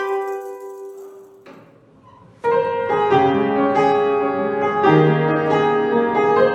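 Piano music: a held chord fades away over the first second or so, then about two and a half seconds in a piano starts playing full chords and a melody.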